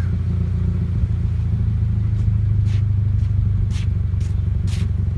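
2017 Toyota 86's flat-four engine idling steadily through a Spec-D aftermarket muffler, a low, even exhaust note. A few faint clicks sound over it in the second half.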